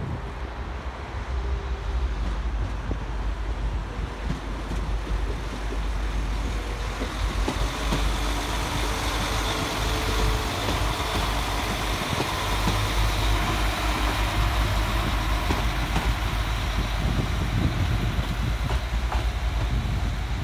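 Diesel passenger train running at the platform: a steady low engine rumble with rail and wheel noise, growing louder over the first several seconds and then holding steady.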